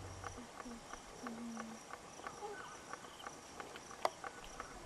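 Outdoor ambience of insects chirping: a faint high, pulsing chirp under a steady run of sharp ticks, about three a second, with one louder click near the end.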